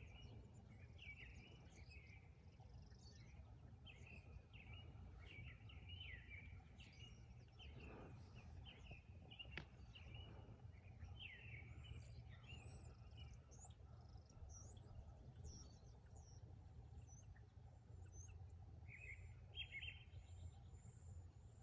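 Small birds chirping faintly in short repeated downward-sweeping calls, over a steady low outdoor background rumble.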